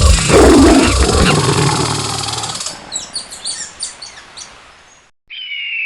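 A loud animal roar, then a quick run of short high chirps, then a high steady call that falls slightly in pitch.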